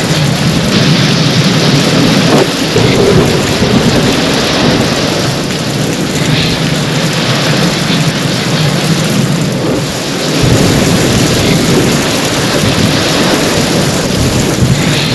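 Heavy rain pouring steadily in a thunderstorm, with a deep rumble of thunder that swells about ten seconds in.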